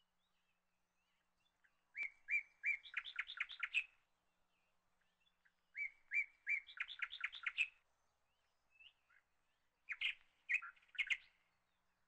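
A small bird singing three short phrases of chirps, each a few separate notes running into a quick trill, the last phrase shorter.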